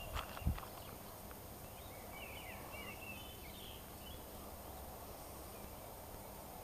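A footstep or two on a gravel path at the start, then a small bird singing a short warbling phrase about two seconds in, over a faint steady outdoor background.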